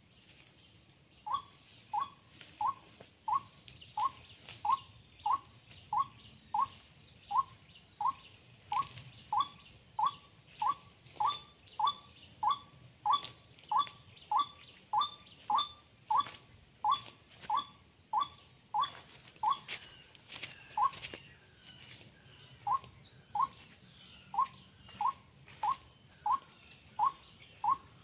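White-breasted waterhen (ruak-ruak) call, repeated short falling notes at a very even pace of about one and a half a second, used as a trapping lure from a speaker. The calls stop for about a second and a half a little past two-thirds of the way through, then go on.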